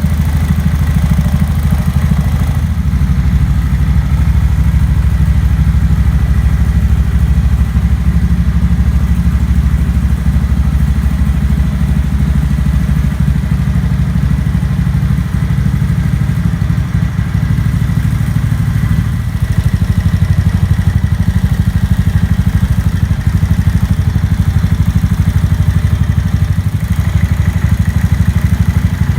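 Honda Grom's single-cylinder four-stroke engine, bored up to 181cc with a Takegawa kit and fitted with a Moriwaki muffler, idling steadily through the exhaust. The idle gets a little louder about two-thirds of the way through.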